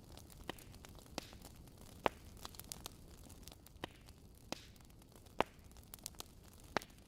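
Wood fire crackling in a fireplace: irregular sharp snaps and pops, two of them louder than the rest, over a soft steady hiss.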